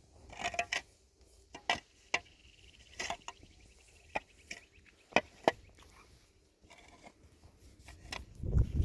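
Irregular sharp knocks and short scrapes, about a dozen strikes with uneven gaps. Near the end a low rumble of wind on the microphone comes in.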